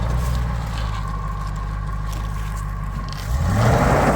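Early-2000s Ford SVT Lightning's supercharged V8 running at low revs, then revving up with a rising pitch and getting louder about three seconds in as the truck accelerates.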